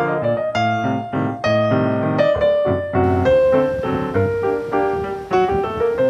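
Solo piano background music: a melody of single notes over held lower notes.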